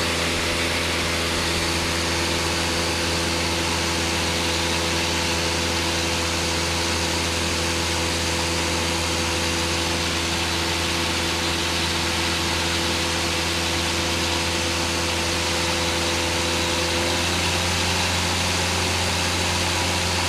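Single-engine Cessna's piston engine and propeller droning steadily in cruise, heard from inside the cockpit, with a slight change in tone near the end.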